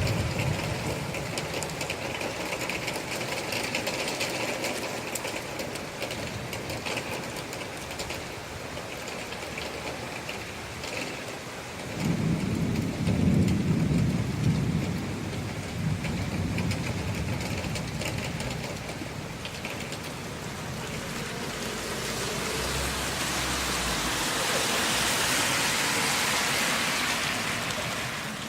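Recorded thunderstorm: steady rain, with a low rumble of thunder about twelve seconds in, and the rain hiss swelling louder near the end.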